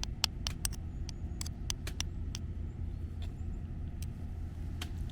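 Campfire wood crackling with sharp, irregular pops, several a second at first and sparser later, over a low steady rumble.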